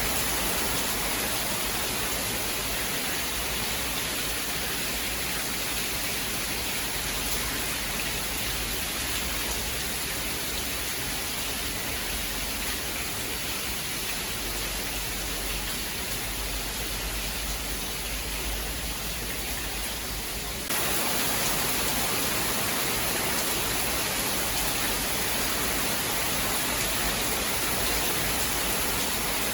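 Steady rain, an even hiss with no thunder. About two-thirds of the way through it switches abruptly to a slightly louder, brighter rain, as at an edit join.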